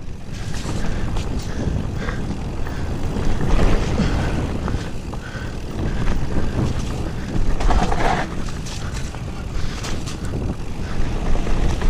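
Mountain bike riding down a rough, muddy trail: a steady low rumble of wind and tyres on the microphone, with frequent clicks and knocks from the bike over the rough ground.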